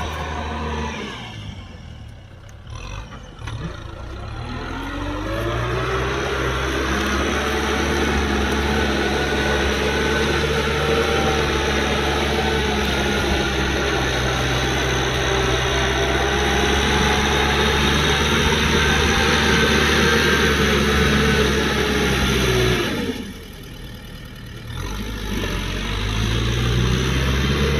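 Kubota M6040SU tractor's diesel engine running. Its note drops away about a second in, rises in pitch over a couple of seconds, holds steady, then falls off sharply about 23 seconds in and climbs back near the end.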